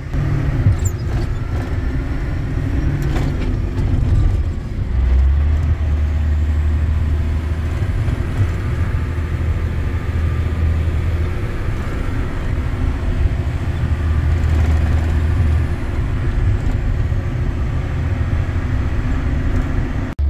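Motor vehicle engine running with a steady low drone, which grows louder about five seconds in.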